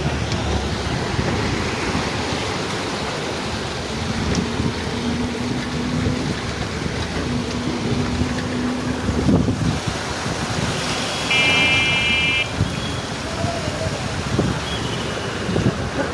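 Road traffic noise from vehicles moving along a flooded street. A horn sounds once, for about a second, roughly eleven seconds in.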